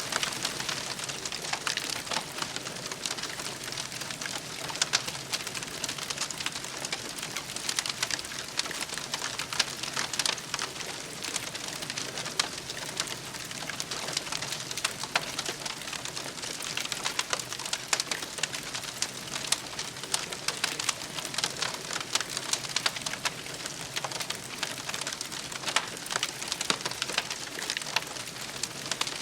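Wood campfire burning, with a dense run of irregular crackles and sharp pops.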